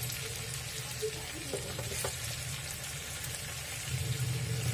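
Stuffed brinjals, potatoes and bitter gourd frying gently in oil in a pan on a low flame, sizzling steadily. A wooden spatula turns them over, with a few faint scrapes and knocks against the pan.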